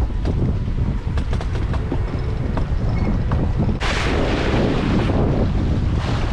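Sailboat sheet winch clicking irregularly as a line is winched in, over heavy wind buffeting on the microphone. About four seconds in, a loud rushing hiss of wind and water sweeps in and covers the clicks.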